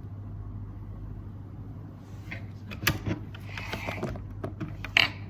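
Steady low room hum with rustling of things being handled, and two sharp clicks or knocks, about three seconds in and again near the end.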